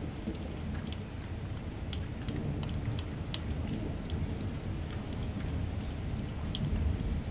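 Rain falling steadily, with a low rumble underneath and scattered sharp ticks of individual drops.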